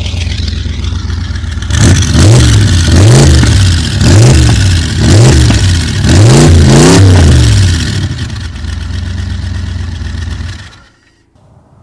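Small-block Chevy V8, which the owner says is a 383, fuel-injected with an Edelbrock throttle-body system, idling and then revved in about five quick blips before settling back to idle. It stops suddenly near the end.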